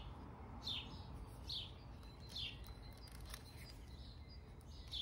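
A bird calling: short chirps that sweep downward in pitch, four in quick succession about one every 0.8 seconds, then another near the end.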